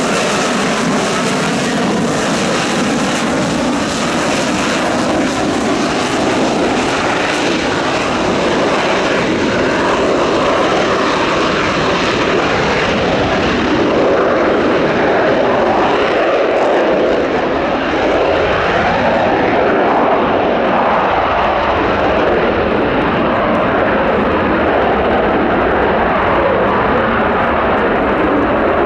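Lockheed Martin F-35B Lightning II's F135 turbofan jet engine, loud and steady, flying slow and low. Its high hiss fades after several seconds while the deep roar keeps on.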